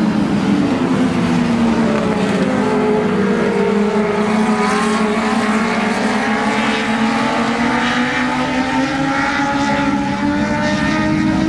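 A pack of dwarf race cars with motorcycle engines running at racing speed, several engine notes overlapping and rising and falling as the cars come past.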